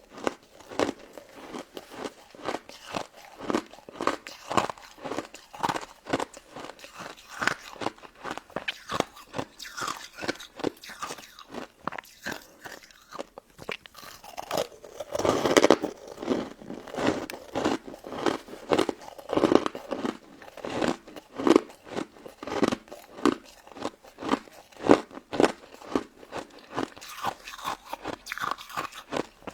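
Close-miked biting and chewing of a crunchy frozen crystal ice dessert: a dense run of crisp crunches, several a second, with a louder cluster about halfway through.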